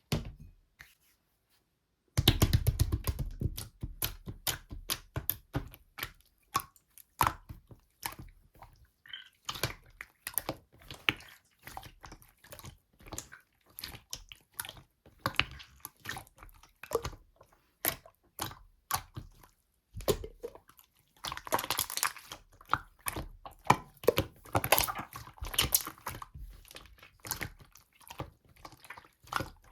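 Slime being squished and poked by hand: a dense, irregular run of sticky clicks and squelches. It starts about two seconds in and grows thicker near the end.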